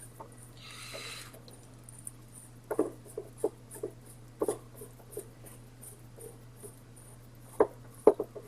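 Vintage hand drill being handled and tried out after reassembly: scattered light clicks and knocks from its metal parts and ratchet, with a brief rasp about a second in.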